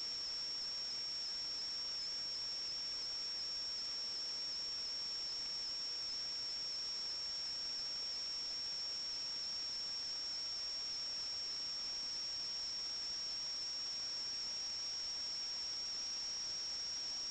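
Steady high-pitched electronic whine over a faint hiss, picked up by the sewer inspection camera's recording equipment.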